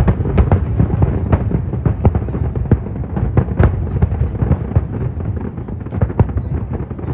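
Fireworks display: a rapid, irregular run of sharp bangs and crackles over a constant deep rumble of shell bursts.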